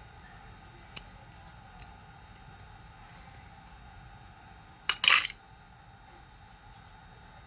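Small metal parts and tools clinking on a workbench: a sharp click about a second in, two light ticks, then a louder clatter about five seconds in.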